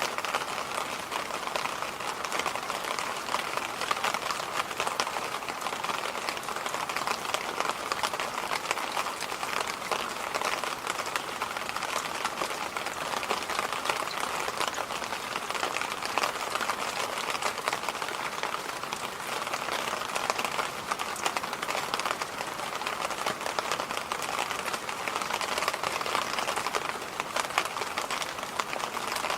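Electric fan running steadily: an even rush of air noise, strongest in the middle range, with a fine crackly texture and no change in speed.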